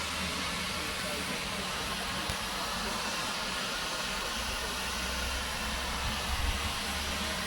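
Steam train running with a steady hiss and a low rumble.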